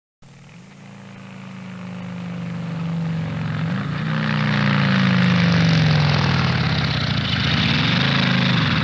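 An engine running, fading in and growing steadily louder, its pitch rising briefly, sinking slowly, then rising again near the end.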